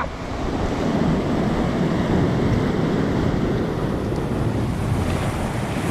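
Wind buffeting the microphone over steady sea surf, a continuous rushing noise heaviest in the low end.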